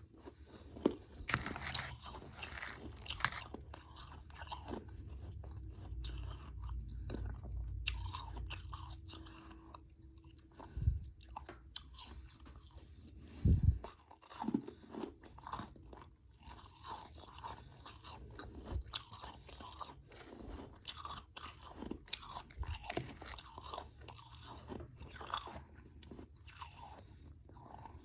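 A person biting and chewing frozen powdery ice and ice chunks right at the microphone: a steady run of irregular crunches, some much louder than others.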